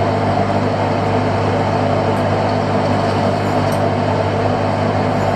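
Fishing boat's engine running steadily, a loud, even drone that does not change.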